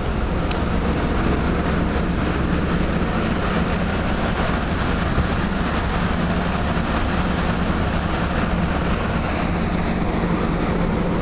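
Steady machinery drone of a large passenger ship, heard on its deck: a constant low hum and rumble under an even rushing noise.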